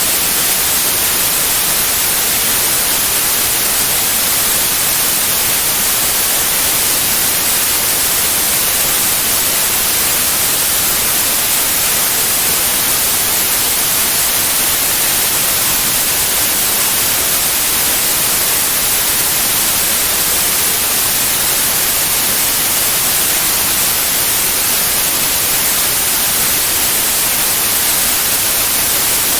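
Steady white noise: an even, unbroken hiss, brightest in the highest frequencies.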